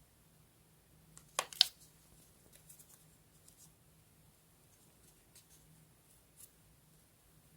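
Paper and stationery handled on a desk: a pair of sharp taps about a second and a half in, then a few faint ticks and rustles.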